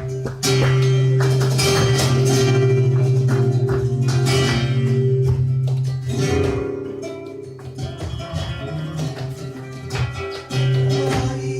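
Live flamenco music led by guitar, with held low notes and many sharp percussive strikes throughout.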